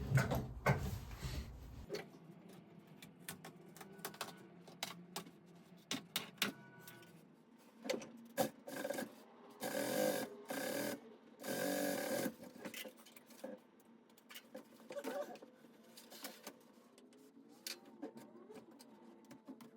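Sewing machine running in two short bursts of about a second each, a little past the middle, amid small clicks and rustles of fabric being handled.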